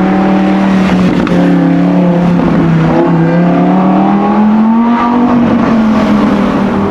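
Sports car engine running loud. Its note holds, dips briefly about three seconds in, then climbs for about two seconds as it revs up, and eases slightly near the end.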